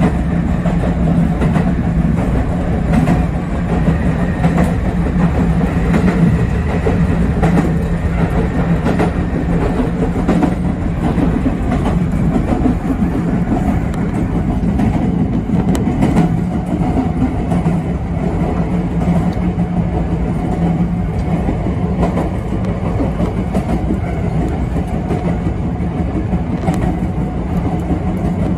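Yoro Railway 7700 series electric train running along the line, heard from on board: a steady running rumble and hum, with scattered clicks of the wheels over rail joints.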